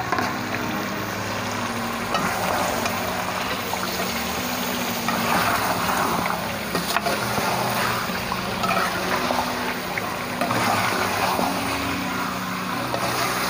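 Potatoes and chicken sizzling as they are stir-fried in masala in an aluminium pot, with a metal spoon scraping and stirring against the pot. A steady low hum runs underneath.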